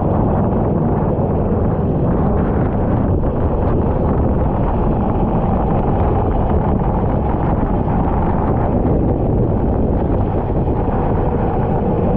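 Racing kart engine running at speed, heavily buffeted by wind on the microphone, making a loud, steady, rumbling noise.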